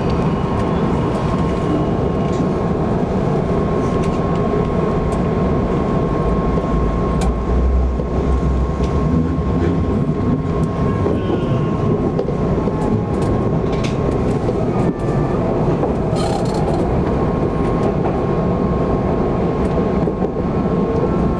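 Odakyu Line electric commuter train running, heard from inside the front car behind the driver's cab: a steady rumble of wheels on rails with a constant high thin tone and scattered sharp clicks.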